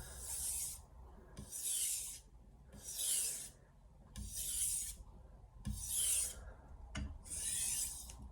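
A stainless-steel santoku edge scraped back and forth on a wet 1000-grit soaking whetstone: six even strokes, about one every 1.3 seconds. The strokes are raising a burr on the edge.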